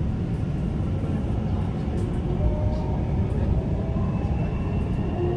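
Suburban electric train running between stations, heard from inside the carriage: a steady low rumble of wheels on track, with faint thin tones appearing above it from about two seconds in.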